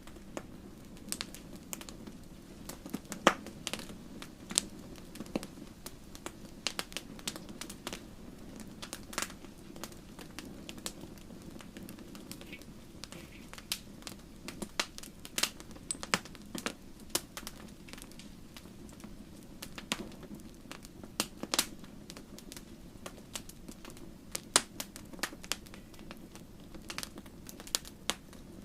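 Wood fire crackling, with irregular sharp pops and snaps over a steady low rush of flame. The loudest pop comes about three seconds in.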